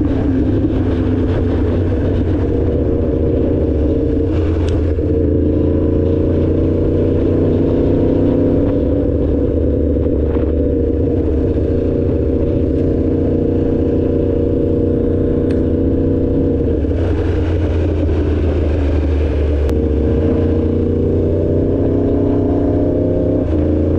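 2016 Yamaha R1's crossplane inline-four engine running at a steady, moderate pitch while riding, with a few brief dips and small changes in pitch as the throttle is eased and reopened.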